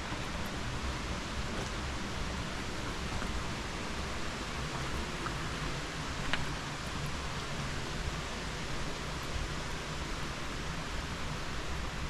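Steady rushing of water from a mountain gorge stream or waterfall, an even hiss with no let-up, with one faint click about halfway through.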